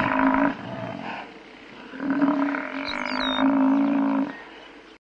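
Buffalo bellowing: a long low call right at the start, then a second, longer one from about two seconds in, cutting off near the end.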